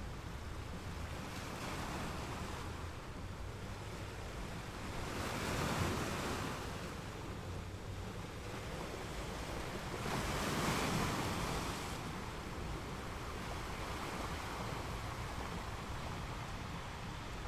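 Sea water washing and wind rushing on the microphone, with two louder surges about five and ten seconds in.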